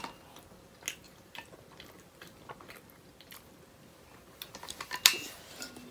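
A person chewing food close to the microphone, with scattered soft mouth clicks and crunches that come thicker near the end.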